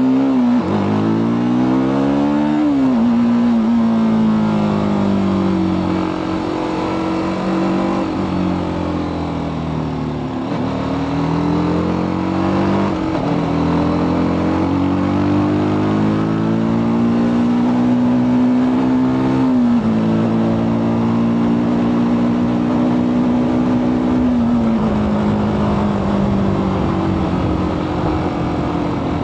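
TVS Apache RTR 310's single-cylinder engine heard through its stock exhaust while riding. The note climbs with throttle over the first few seconds, then drops sharply. Several more sudden pitch changes follow at gear shifts, with steady cruising between them.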